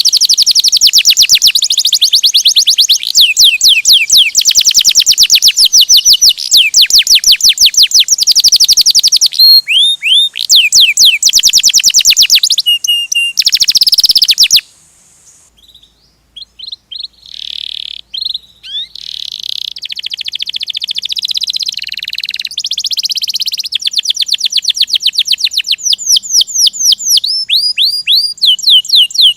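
A domestic canary singing a rolling song of long, fast trills of rapidly repeated whistled notes. About halfway through it breaks off abruptly, then starts again softer and builds back up.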